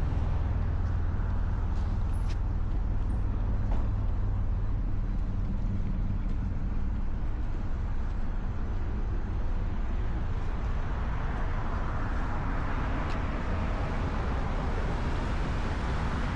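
Motorcycle engine running steadily with a low, even drone, under a hiss of wind and road noise that grows louder in the last few seconds.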